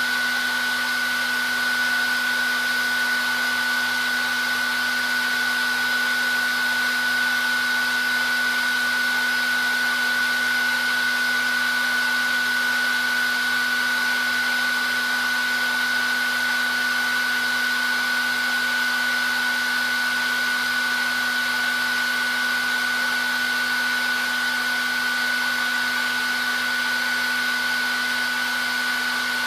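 Hair dryer running continuously: a steady rush of blown air with a constant high whine from the motor and a lower hum.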